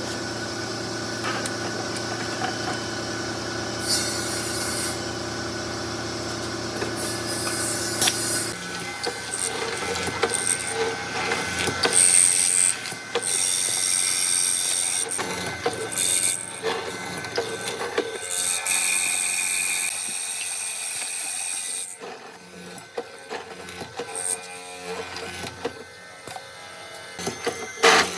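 Woodworking power tools at work on wood. A motor runs steadily for the first several seconds, then gives way to stop-start tool noise with high whines and sharp knocks. It turns quieter and more irregular in the last few seconds.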